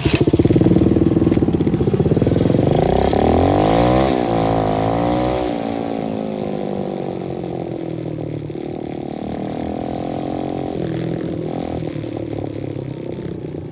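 A 125cc dirt bike engine running. It is revved up and down a couple of times a few seconds in, then settles to a steady idle.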